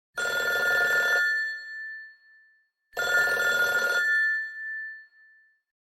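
An electric bell rings twice, each ring lasting about a second with a short fading tail, the two rings about three seconds apart, like a telephone ringing.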